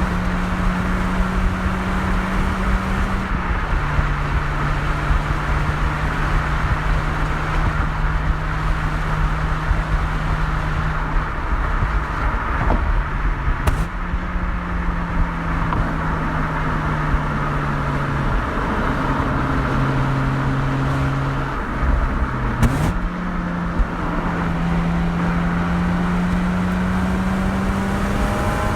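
Mazda RX-8's two-rotor rotary engine with an aftermarket muffler, driving at a steady engine speed. Its note steps down and up several times as the revs change. Two short clicks come about halfway and about three-quarters through.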